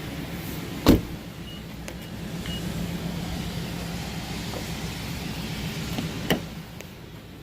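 Inside an SUV, a sharp knock of a door or latch about a second in and another near the end, with light clicks and a faint steady electric-motor hum in between.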